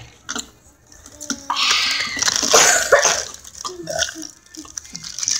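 Close-miked eating noises: wet mouth sounds and chewing in bursts, loudest between about one and a half and three seconds in.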